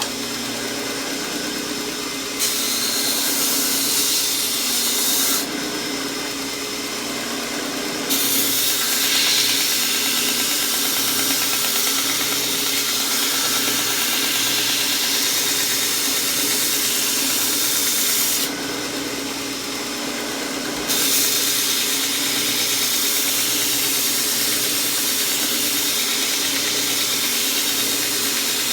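Homemade 2x72-inch belt grinder running with an Orange Blaze abrasive belt, grinding a steel lawn mower blade. The steady motor and belt tone is joined by a louder grinding hiss in long stretches, from about two seconds in, again from about eight seconds to eighteen, and from about twenty-one seconds on, as the blade is pressed to the belt.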